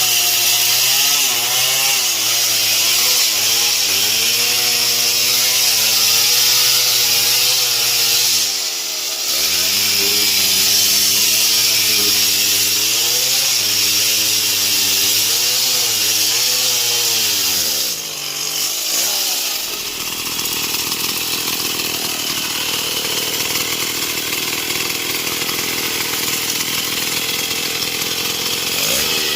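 Stihl MS 070 two-stroke chainsaw sawing through wood, its engine pitch wavering as it bogs and recovers under load. The pitch dips briefly about nine seconds in and falls away about eighteen seconds in. A steadier, noisier sawing sound without a clear engine tone fills the last third.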